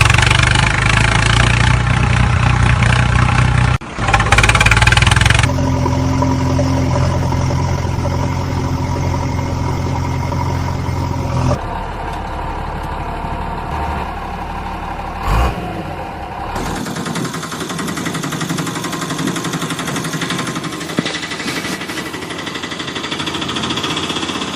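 Motor vehicle engine running steadily, in several sections that switch abruptly from one engine sound to another.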